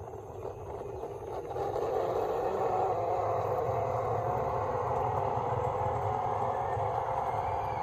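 A vehicle running steadily, growing louder over the first two seconds and then holding.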